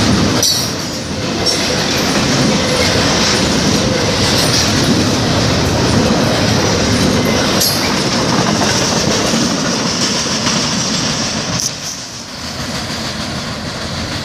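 Double-stack intermodal freight train cars rolling past at close range, with a steady loud rail and wheel noise and a few sharp clanks. The noise drops off about twelve seconds in as the last car goes by.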